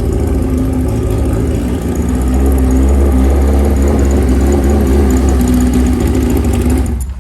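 A drag bike's engine running loudly and steadily, getting louder about two seconds in, then shut off abruptly near the end.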